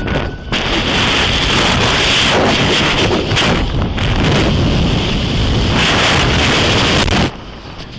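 Loud wind buffeting a police body-worn camera's microphone as the car carries the officer clinging to its hood, a steady rushing roar that drops away briefly near the end.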